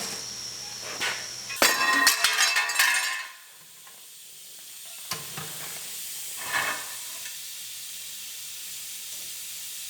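Metal body-panel work with a MIG welder: a loud crackling, sizzling burst lasting about a second and a half, then a quieter steady hiss broken by two short crackles.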